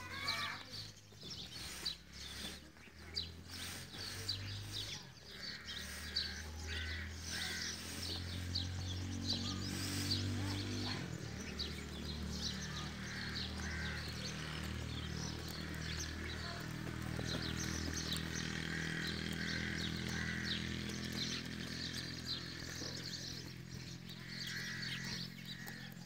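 Small birds chirping and twittering over and over, with a few longer calls, above a steady low hum.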